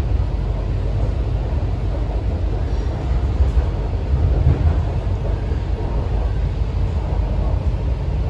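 Inside an MTR C-train passenger car in motion: a steady low rumble of wheels and running gear on the track.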